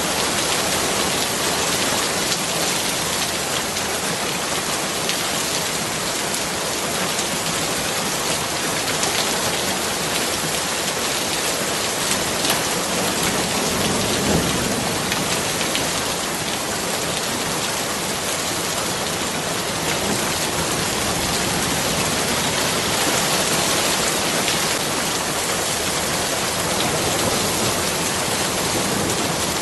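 Steady heavy rainfall: a dense, even hiss of many drops striking surfaces, with a brief low rumble about halfway through.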